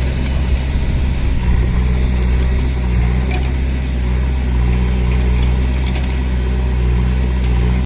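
Heavy diesel engine running steadily at a constant speed, with a deep, even hum and a few faint clicks.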